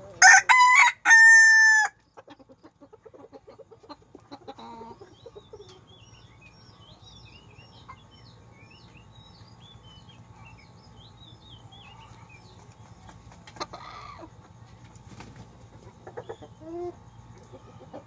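A rooster crows once, loudly, in the first two seconds, then chickens cluck quietly on and off, with faint, quick high chirps in between.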